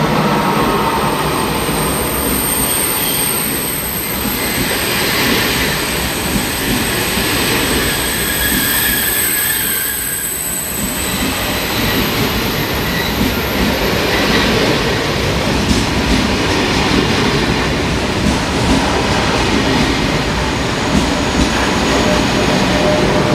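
Train running past at close range: a steady loud rumble of wheels on rails, with a thin high-pitched wheel squeal over the first half that fades away about halfway through.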